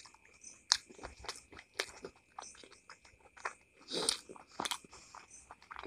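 A person chewing a mouthful of fried chicken-cheese taifu, a fried dumpling, with chutney: irregular crunches from the crisp fried wrapper and wet mouth clicks, a few louder crunches among them.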